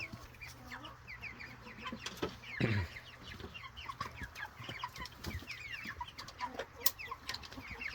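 Young meat chickens peeping and cheeping, a steady stream of short falling chirps from several birds, with one louder, lower call about two and a half seconds in.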